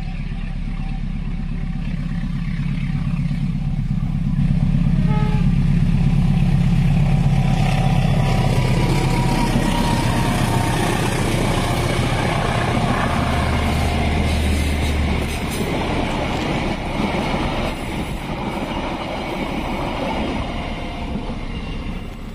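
A diesel locomotive hauling a passenger train passes close by. Its engine hum builds to its loudest a few seconds in, then gives way to the steady rumble and clatter of the coaches' wheels on the rails as the carriages go by.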